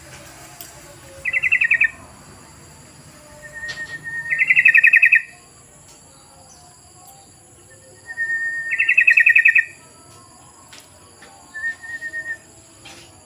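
Yellow-vented bulbul (trucukan) calling in short, rapid chattering phrases: three loud ones a few seconds apart, each opening with a brief steady note, and a fainter phrase near the end.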